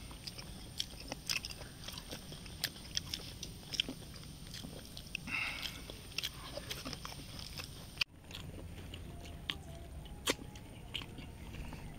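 Close-miked chewing of pork sisig: wet mouth clicks and small crunches, several a second, with a brief dropout about eight seconds in.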